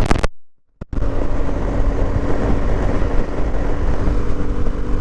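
Motorcycle ride audio from a water-damaged GoPro Media Mod microphone: loud static-like rushing noise with a steady drone under it. The sound cuts out completely for about half a second shortly after the start.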